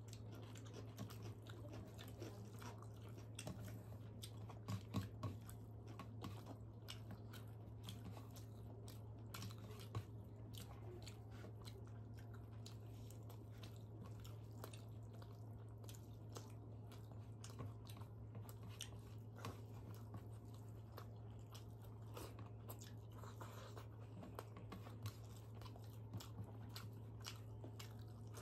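Close-miked eating sounds from two people eating rice by hand: wet chewing and lip smacks, fingers squishing rice on steel plates, and a few sharper crunchy bites, with the loudest clicks about five and ten seconds in. A steady low hum runs underneath.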